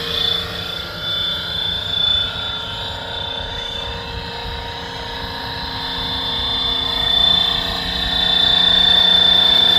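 Scale RC helicopter hovering: a steady high whine from its motor and rotors over a low rumble, growing louder over the last few seconds.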